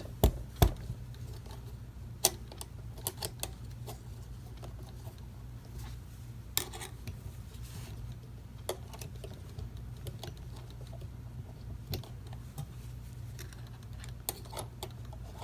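Scattered sharp clicks and light metallic taps as a mainspring let-down tool and retaining clip are handled on a Seth Thomas 89C clock movement, the loudest two near the start. A steady low hum runs underneath.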